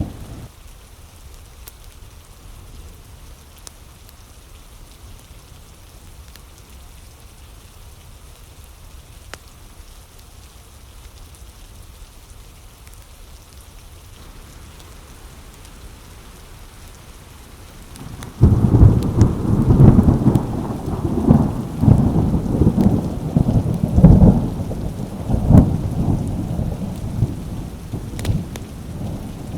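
Steady rain, then about two-thirds of the way through a sudden loud thunderclap that rolls on as a long rumble with repeated cracking peals.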